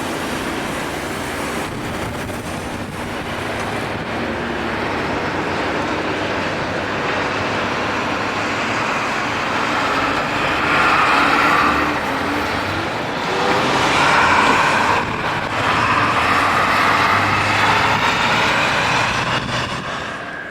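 Rail grinding machine working along the track: a continuous harsh grinding noise that swells louder several times in the second half.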